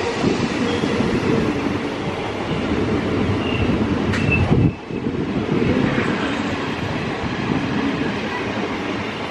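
ICF-type passenger coaches of a departing train rolling past close by: a steady rumble of wheels on the rails, with a sharp knock about halfway through, followed by a brief dip in loudness.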